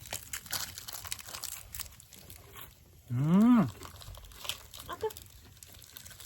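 A person's short appreciative 'mmm' hum while eating grilled mochi, its pitch rising then falling, about three seconds in. Faint crinkling and small eating sounds around it.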